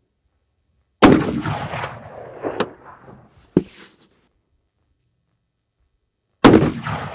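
Two rifle shots from a Ruger American Gen 1 bolt-action rifle in .243, about five and a half seconds apart, each a sharp crack followed by a fading rumble of echo. Between them come two sharp clicks as the bolt is cycled.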